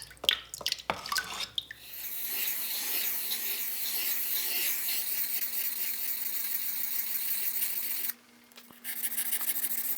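A few knocks and clicks as the whetstone is turned over, then, from about two seconds in, a steady wet hiss of water and stone at the whetstone that pauses briefly near the end before starting again.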